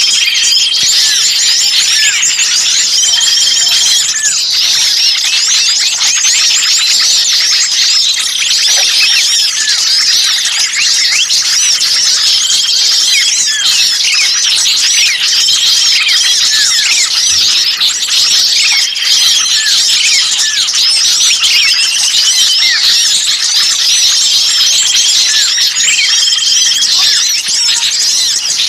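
Dense, high-pitched chattering and chirping of many small songbirds, with a held whistled note of about a second recurring every few seconds; a bird-lure recording of noisy small birds used to draw in wild birds.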